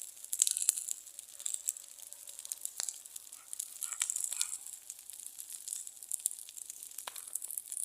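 Bonfire of pine branches, twigs and dry leaves burning, with a steady crackling hiss and scattered sharp pops.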